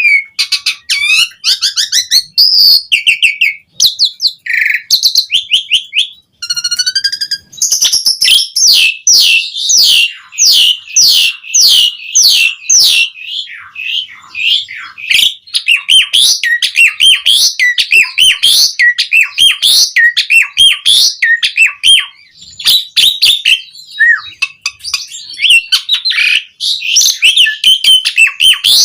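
Asian pied starling (jalak suren) singing loudly: a long, varied song of whistles, chirps and harsh rapid phrases, in separate phrases at first and then a fast unbroken run from about eight seconds in.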